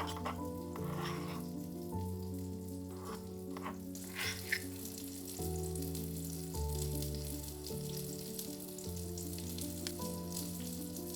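Food sizzling as it fries in a pan, a fine steady crackle that grows denser a few seconds in, under soft background music of slow, held chords.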